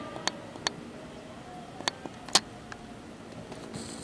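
Electric commuter train approaching at a distance, a low steady running sound, with sharp irregular clicks over it, the loudest a little over two seconds in.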